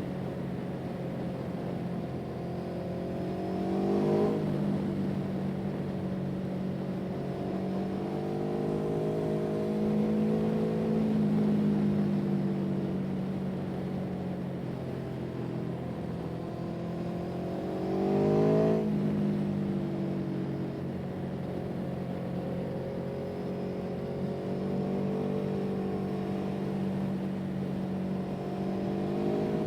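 An engine running steadily, its pitch and loudness rising briefly twice, about four seconds in and again near the middle.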